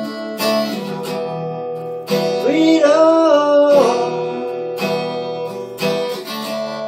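Acoustic guitar strummed in chords, with a man singing one long, wavering held note in the middle.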